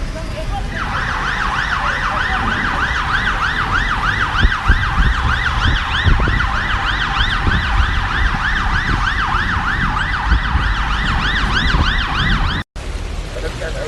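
Emergency vehicle siren in a fast yelp pattern, rising and falling about three times a second over a steady low rumble of wind and rain. It cuts off suddenly near the end.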